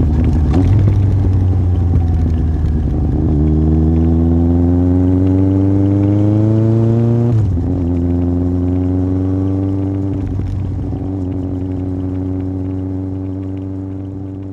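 Yamaha Fazer 1000's inline-four engine through a MIVV aftermarket exhaust, heard on the move: it pulls with pitch rising for a few seconds, drops sharply about seven seconds in, then runs on steadily, growing quieter toward the end.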